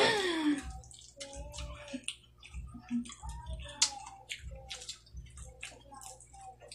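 Close-miked chewing and wet mouth sounds: many short lip smacks and clicks as several people eat dried fish and cucumber slices. A laugh fades out at the start.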